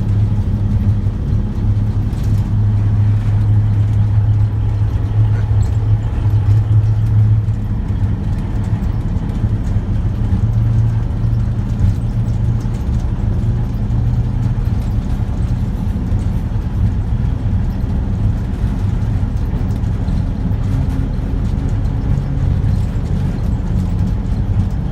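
Locomotive 1556's engine running steadily under throttle, a deep, even hum heard inside the cab.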